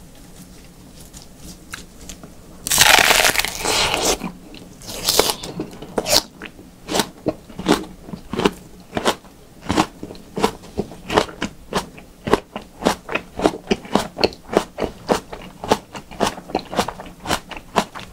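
A bite into a whole raw onion, a loud crunch about three seconds in and another soon after. Then steady crunchy chewing of the crisp onion, about two to three crunches a second, close to the microphone.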